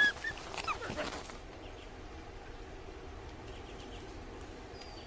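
Eurasian wolves whining: a high whine right at the start and a few short falling whines within the first second, then faint steady outdoor ambience.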